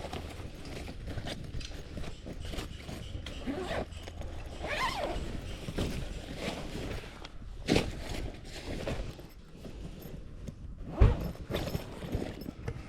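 Footsteps and scattered knocks and rustles, with one heavy, dull thump about eleven seconds in.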